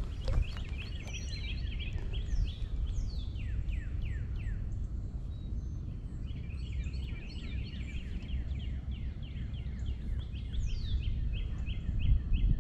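Wild birds singing, many quick down-slurred whistles and rows of short even-pitched notes, over a steady low rumble. A single sharp knock about half a second in.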